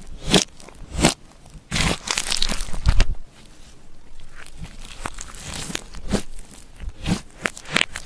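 Glossy slime being mixed and squished, giving irregular sticky clicks, pops and crackles. The strokes are louder for a second or so near the start, then turn into a softer, denser crackle.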